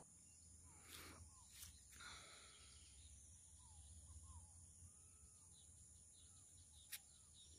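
Near silence, with faint, scattered short chirps of birds and a few faint clicks.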